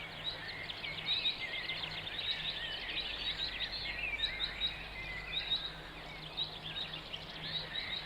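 Many small birds chirping and trilling in quick, overlapping calls, over a faint steady low hum.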